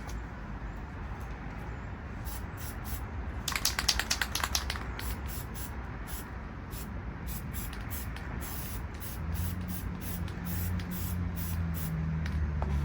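Aerosol can of copper gasket spray: a quick run of rattles, then short hissing spray bursts as a gasket is coated. A low steady hum comes in about nine seconds in.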